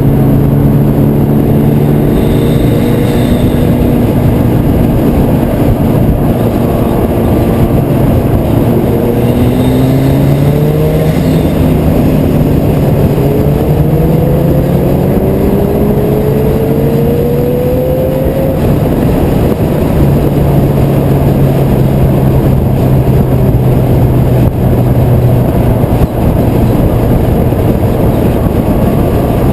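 Car engine and heavy wind and road roar at highway speed. The engine drones steadily, then climbs in pitch several times between about 10 and 18 seconds as it accelerates hard, then settles to a steady drone.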